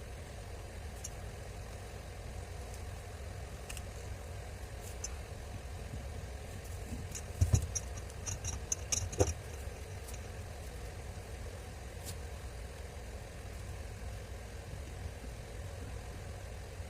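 Steady low hum, with a short run of clicks and knocks about halfway through, as of small parts being handled on a workbench.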